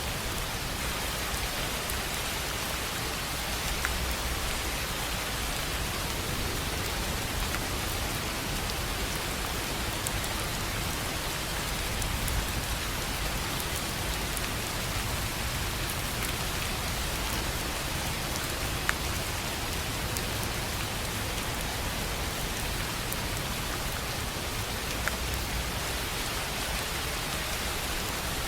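Steady rain on a tin roof, with a few louder single drops striking now and then.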